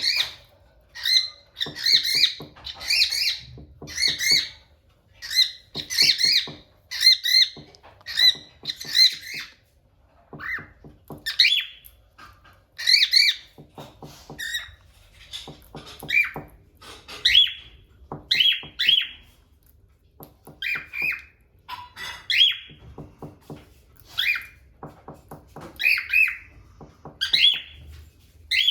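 Cockatiels calling: short, sharp chirps and squawks, repeated in quick runs, then more spaced single calls that slide upward in pitch in the second half.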